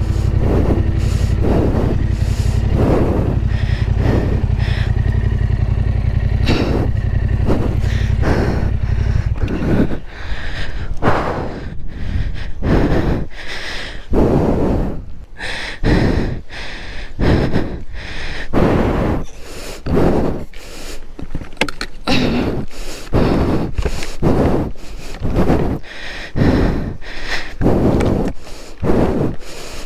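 Yamaha Ténéré 700 motorcycle engine running steadily, cutting off about ten seconds in. Over it and after it comes heavy, rhythmic panting about once a second, from the rider straining to lift the fallen bike.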